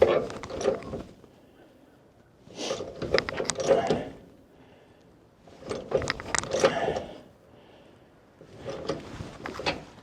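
Hand-tool work on metal: four bursts of rapid clicking and scraping, each about a second and a half long, a few seconds apart.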